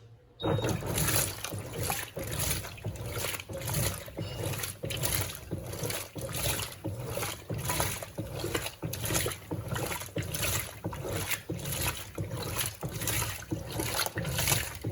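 Electrolux Turbo Compacta 7 kg washing machine starting its wash agitation about half a second in: the motor and impeller churn water and clothes on a low water level, in regular sloshing surges about twice a second over a low rumble.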